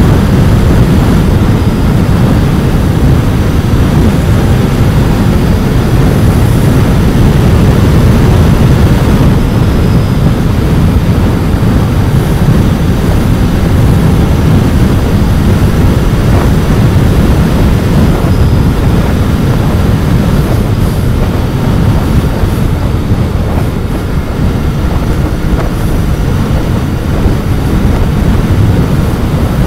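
Royal Enfield Continental GT 650's 650 cc parallel-twin engine running at speed through its stock exhaust while riding, mixed with road and wind rush, loud and steady.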